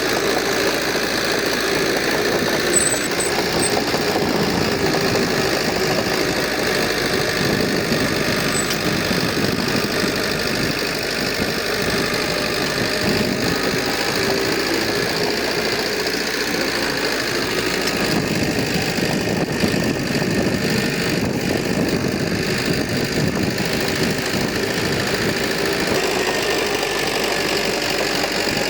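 Heavy construction machine's diesel engine running steadily.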